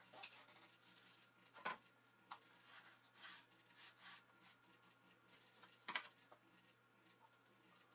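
Faint rubbing and light tapping, with two sharper clicks, one a little under two seconds in and one about six seconds in.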